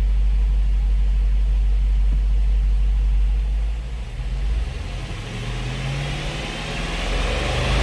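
2008 Dodge Charger's 6.1L Hemi V8 running with a steady low rumble, then about halfway through the level dips and the engine speed climbs.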